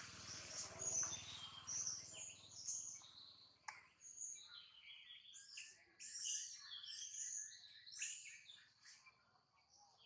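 Wild birds chirping in the forest, a busy string of short, high-pitched calls and trills, with a single sharp click a little under four seconds in.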